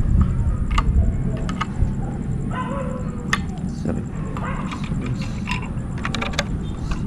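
Scattered light clicks and knocks of hands working on an electric water heater's wiring and casing, over a steady low rumble.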